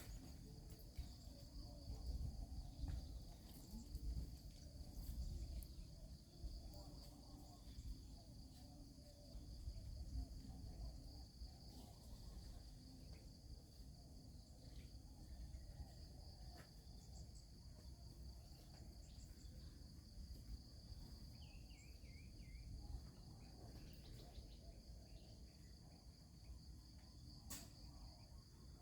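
Steady high-pitched chorus of insects, likely crickets, over a low rumble with a few faint clicks.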